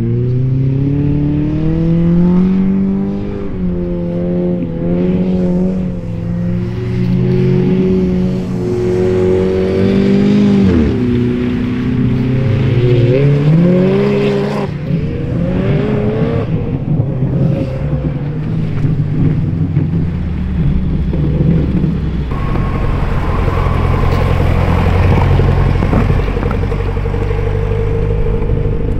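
Straight-piped turbocharged EJ20Y flat-four of a 2004 Subaru Legacy GT wagon, revving up and falling back again and again as it is driven hard through the gears.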